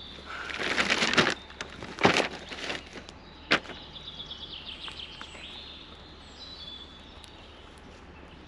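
Small birds singing, with a quick trill of repeated notes about four to five seconds in, over a few loud rustling, scraping noises in the first four seconds and a sharp knock about three and a half seconds in.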